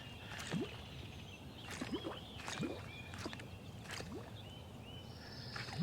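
Spro E-Pop popper being twitched across the water surface: a series of faint, short, rising bloops at irregular spacing, with faint high chirps above them.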